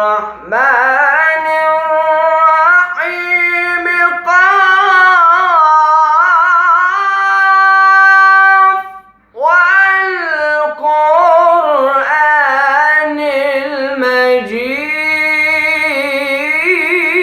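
A Quran reciter's solo voice in long, ornamented melismatic phrases in maqam Rast, with one break for breath about nine seconds in.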